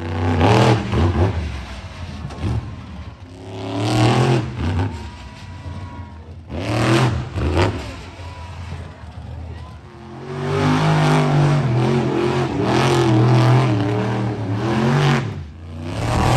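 Monster truck engine revving hard in repeated bursts, with a short rev near the start, others about four and seven seconds in, and a longer stretch of rising and falling revs in the second half.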